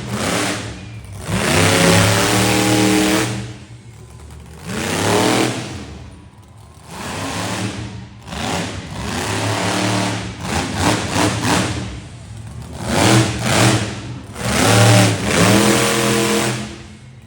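Monster truck engines revving hard in repeated surges, each climbing in pitch for a second or two before dropping back, about six times.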